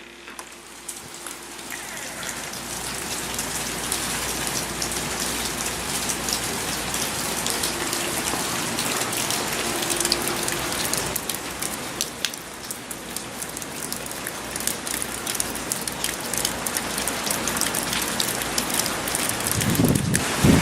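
Heavy hurricane rain pouring down and pattering on surfaces, with many sharp drop impacts. It swells up over the first few seconds and then stays steady and loud.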